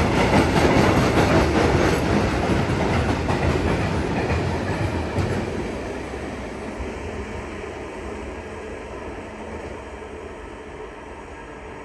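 A train running past on the tracks, its wheels clacking repeatedly over rail joints. The rumble fades away over a few seconds as the train moves off, leaving a low steady hum.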